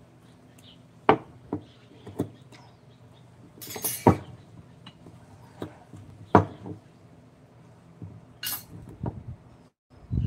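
Scattered sharp clinks and knocks of hard objects being handled, about eight in ten seconds, with a short scraping rustle just before the loudest knock about four seconds in.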